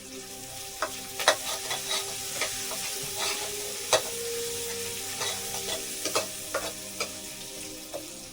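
Food sizzling as it fries in a pan while it is stirred, with a utensil scraping and knocking against the pan many times.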